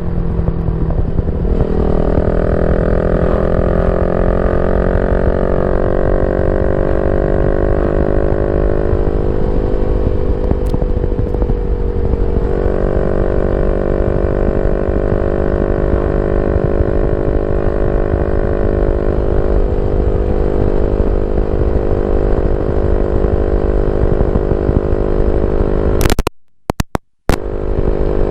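Yamaha Y15ZR's 150cc single-cylinder engine running through a YYPANG aftermarket exhaust, holding a steady note with slow rises and dips in revs. Near the end the sound cuts out briefly twice.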